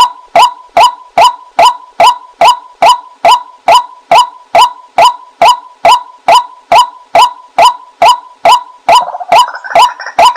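Female white-breasted waterhen call played as a hunter's lure recording: a steady, rapid series of short kwak notes, about two and a half a second. About nine seconds in, a noisy hiss rises under the calls.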